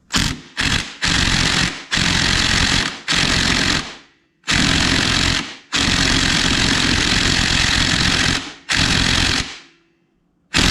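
Impact driver hammering on a stuck flywheel nut on a Yamaha DT100, run in repeated bursts of one to three seconds: breaking the WD-40-soaked nut loose so the flywheel can come off.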